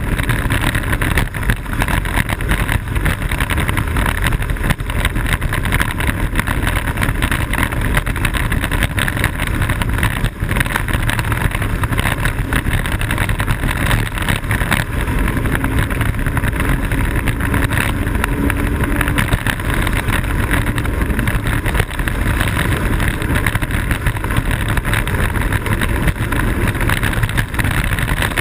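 Blokart land yacht sailing fast: a loud, steady rush of wind on the microphone mixed with the rolling roar of its small wheels on the airfield pavement.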